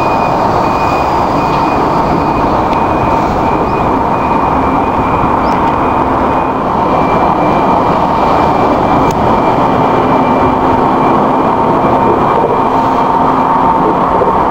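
Steady, loud noise of nearby road traffic, an unbroken swishing roar with a faint constant whine running through it.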